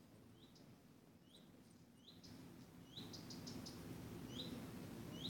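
A small bird chirping faintly and repeatedly: short notes that hook upward, about one or two a second, with a quick run of ticking notes about three seconds in. Low background noise beneath grows louder about three seconds in.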